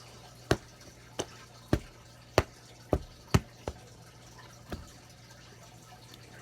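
About eight sharp taps, irregularly spaced and each very short, over roughly four seconds, with a steady low hum underneath.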